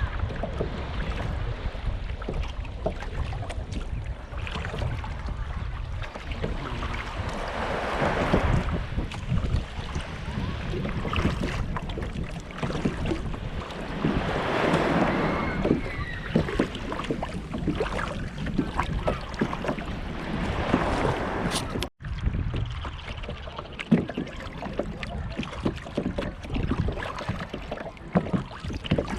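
Water splashing and lapping around a kayak being paddled, with swells of splashing every several seconds and small drips in between, over wind buffeting the microphone.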